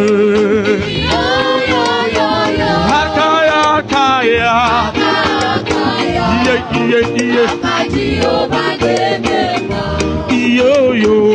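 Gospel choir singing with a live band, over a steady drum beat and bass.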